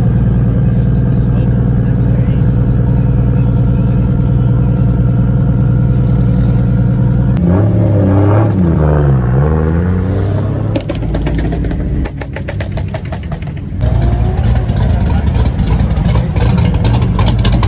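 A car engine running loudly at a steady idle. About seven seconds in, its pitch dips and climbs again as it is revved. Then comes a stretch of rapid crackling ticks before the steady engine sound returns.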